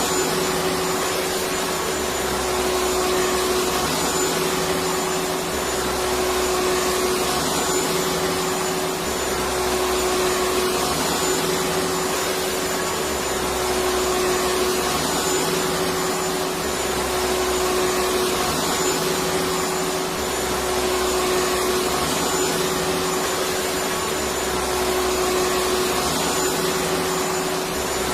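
Electric vacuum cleaner running continuously with a steady hum over its rushing noise, a faint low pulse repeating about every two seconds underneath.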